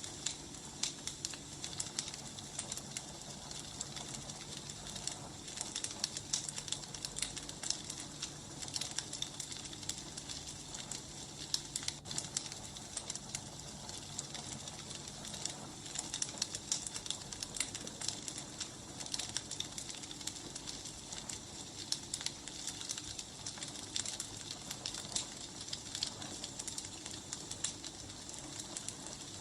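Wood fire crackling steadily, with many small pops and snaps.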